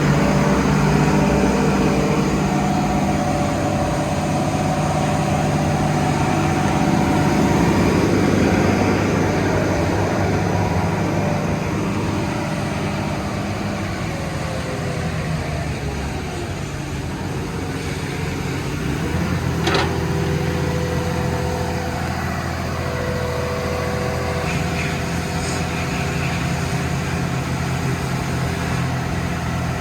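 Vögele Super 1803-3i asphalt paver's diesel engine running steadily, with a tone that falls in pitch around the middle and a single sharp click about twenty seconds in.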